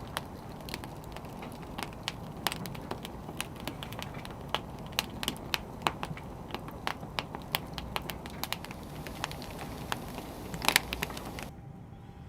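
Wood fire crackling, with irregular sharp pops and snaps over a soft steady hiss and one louder pop near the end. The crackling stops abruptly about a second before the end.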